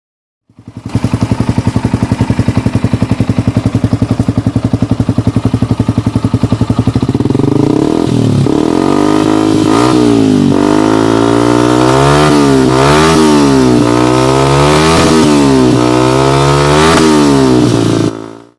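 Yamaha R15 V3's single-cylinder engine through an aftermarket slip-on exhaust, idling with an even putter, then revved in a series of about six quick throttle blips that rise and fall in pitch before it cuts off near the end.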